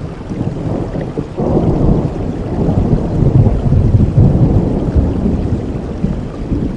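A thunder rumble over steady rainfall: the deep rumble swells about a second and a half in, peaks in the middle and slowly fades.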